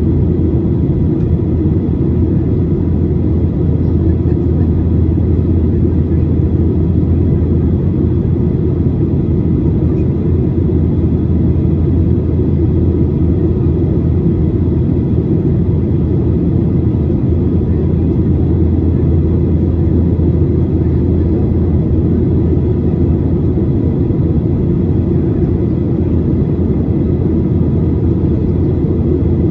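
Steady cabin noise of a Boeing 737-800 in flight: an even, deep rumble of engines and airflow with faint steady higher tones, unchanging throughout.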